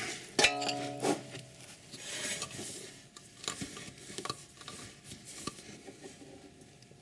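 Hands handling small parts: rustling and light clicks and taps, with a short steady hum of several pitches about half a second in.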